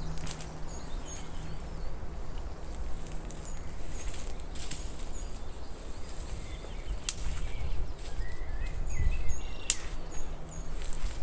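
Forest ambience: small birds giving short, repeated high chirps, with a brief warbling call about nine seconds in. A few sharp clicks are heard, the loudest near the end, over a low rumble.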